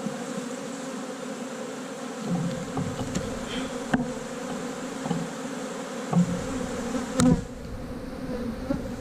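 Honey bees of a large, crowded colony buzzing in a steady hum from the open hive. A few light knocks come through, the clearest about seven seconds in.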